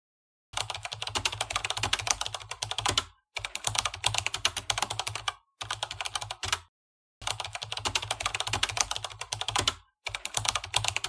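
Rapid typing on a computer keyboard, in runs of one to three seconds broken by short pauses.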